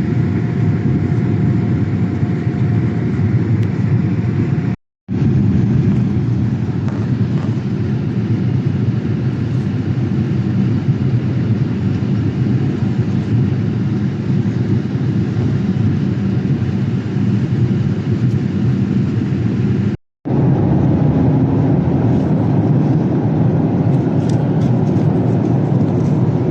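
Steady low roar of a Boeing 787-8's engines and airflow heard inside the economy cabin. It drops out briefly twice, about five and twenty seconds in.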